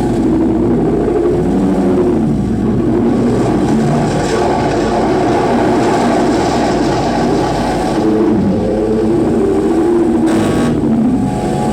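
Live noise music: a loud, dense wall of distorted electronic sound, with warbling pitched drones that keep shifting in pitch.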